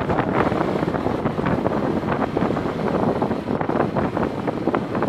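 Wind buffeting the microphone: a steady, loud rush dotted with many small crackles.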